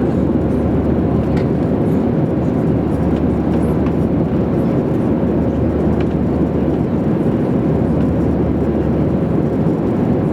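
Steady cabin noise of a jet airliner in flight: an even, unbroken roar of engines and airflow, heaviest in the low range.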